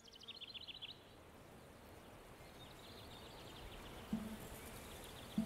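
Faint outdoor ambience with a small bird chirping in quick high trills, twice. A brief low tone sounds about four seconds in.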